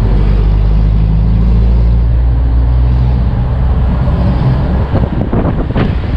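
Red songthaew taxi's engine running on the road with road noise: a steady low engine hum, turning rougher and more rumbling from about five seconds in.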